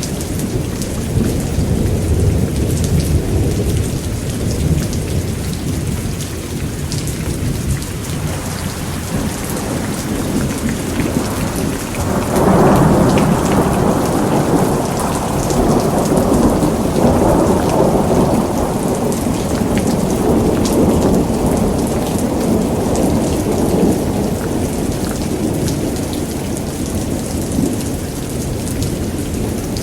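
Heavy rain falling steadily, with rolling thunder: a low rumble in the first few seconds, then a louder peal about twelve seconds in that rumbles on for several seconds and fades slowly.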